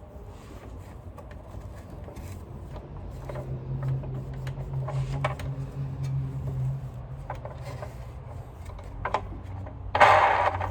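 Dry, unlubricated rotating parts of a Sanitaire upright vacuum being spun by hand: a low hum and scattered clicks, then a loud grinding rattle near the end, the sign of parts that need oiling.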